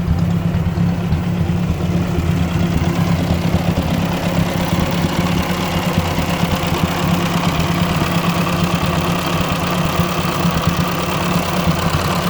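1957 Ford 841 tractor's four-cylinder gasoline engine running steadily at idle on its newly fitted replacement carburetor, which is working.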